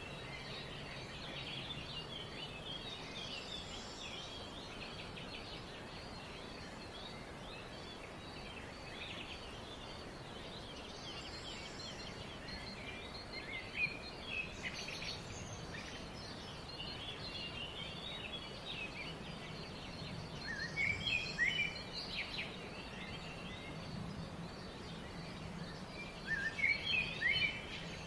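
Several birds chirping and calling over a steady background hiss, in quick runs of short notes, with louder flurries of rapid chirps near the middle and twice toward the end.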